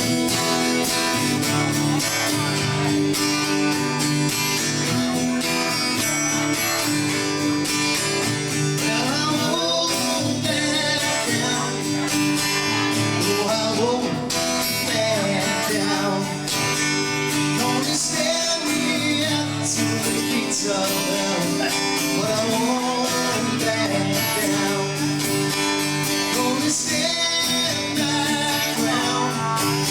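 Song performed on strummed acoustic guitar with a singing voice.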